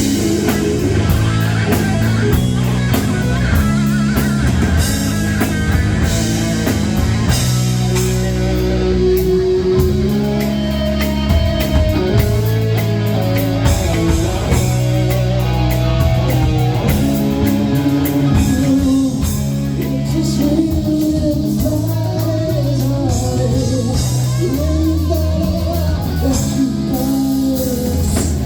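A rock band playing live, with electric guitar and a drum kit, loud and continuous.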